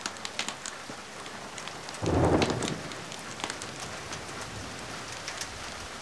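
Steady rain with scattered sharp crackles from a wood fire, and a short, sudden clap of thunder about two seconds in that dies away within a second.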